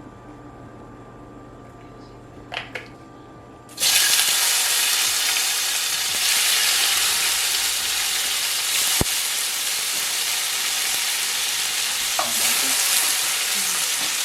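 Food added to hot oil in a frying pan, sizzling loudly. The sizzle starts suddenly about four seconds in, after a couple of small clicks, and keeps up steadily.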